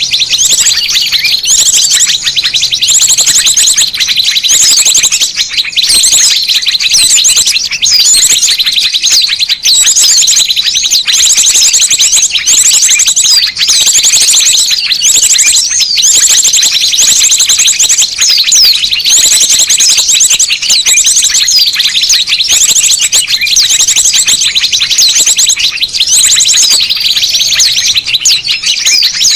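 A loud, dense chorus of many small birds chirping and trilling without pause: a bird-lure recording of noisy small-bird calls, used to draw small birds in.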